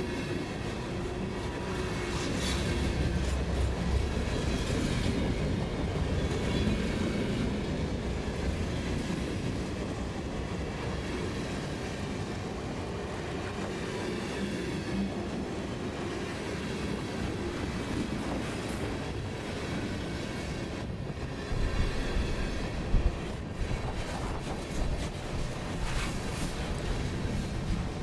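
Freight train cars rolling past on the rails, with the wheels clacking steadily and a few louder knocks about three-quarters of the way through.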